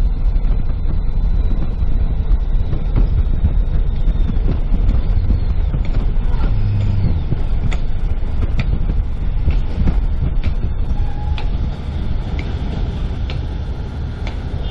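A moving car's road and engine noise: a steady low rumble with scattered light clicks and rattles.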